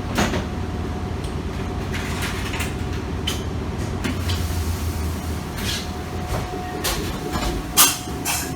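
Electric commuter train running, heard from inside the passenger car: a steady low rumble and a steady tone, with several sharp clacks along the way, the loudest near the end.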